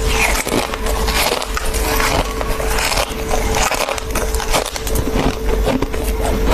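Close-miked chewing and crunching of fluffy freezer frost, a dense run of crisp crackles, with a steady hum underneath.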